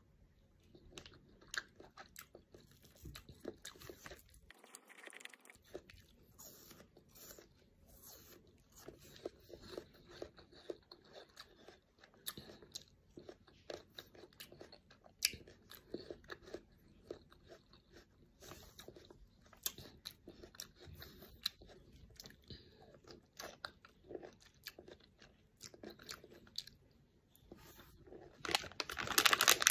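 A person biting and chewing chunks of fresh fruit, pineapple among them: many short, irregular crunches and chews, growing louder near the end.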